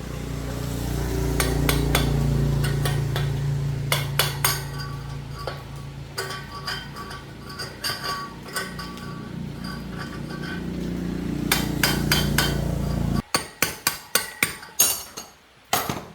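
A motor runs steadily with light metallic clinks over it, then stops abruptly near the end. A quick series of sharp hammer strikes on metal follows.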